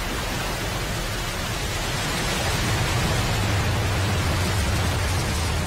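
Falcon 9 rocket's first-stage engines firing at liftoff: a steady rushing noise over a deep rumble that grows louder about two seconds in and holds.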